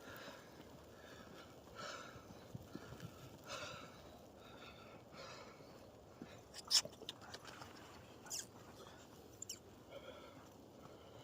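A person breathing hard while walking through snow, a slow puff about every two seconds. There are a few sharp crunches or snaps near the middle.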